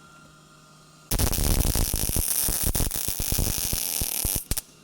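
MIG welder laying a plug weld on a new sheet-steel floor pan: a steady crackling hiss starts about a second in, runs for about three seconds, and ends with two short blips of the trigger.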